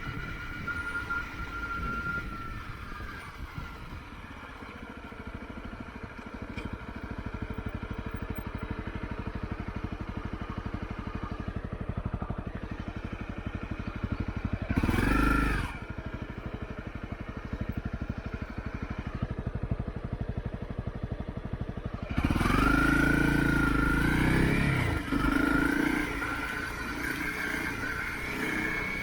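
Motorcycle engine running steadily while riding. About halfway through there is a brief loud surge, and a louder stretch of acceleration comes later, where the engine pitch rises and falls.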